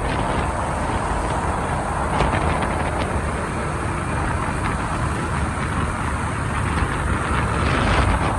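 Motorbike riding through city traffic: steady engine and road noise with wind rushing over the microphone.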